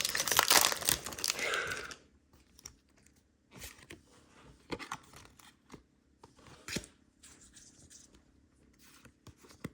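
A foil Pokémon booster pack wrapper crinkling and tearing open for about two seconds, then faint scattered clicks and slides of the cards being handled.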